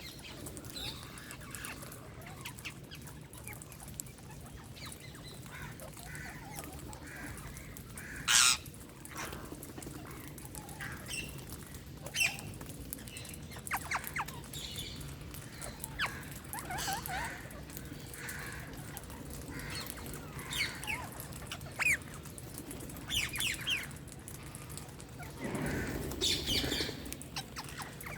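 Wild green parakeets calling: sharp screeches and chirps at irregular intervals, the loudest about eight seconds in, over a low steady hum.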